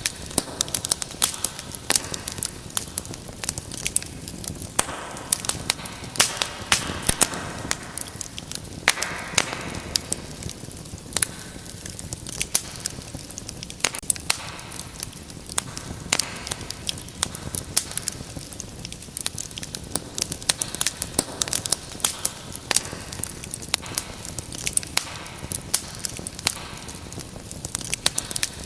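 Wood fire in a fireplace burning and crackling: frequent sharp pops and snaps over a steady soft hiss of flames.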